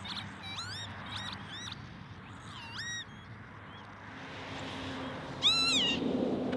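Northern lapwings calling: several short, wheezy 'pee-wit' cries, each dipping and then sweeping up in pitch, with the loudest call near the end.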